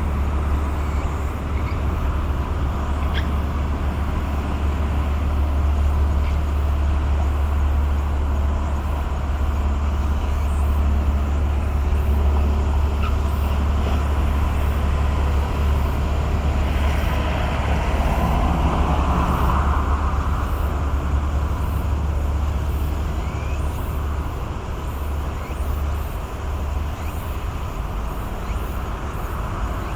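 Low, steady drone of a large tugboat's diesel engine passing, easing off somewhat near the end.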